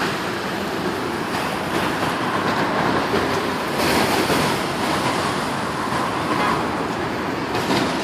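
Steady road-traffic noise, a continuous hum of passing vehicles, with a faint whine rising out of it in the middle.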